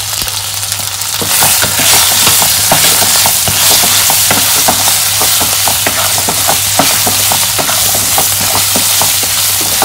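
Boiled potato cubes sizzling in foaming melted butter, stirred with a wooden spatula that clicks and scrapes against the pan. The sizzle grows louder about a second in.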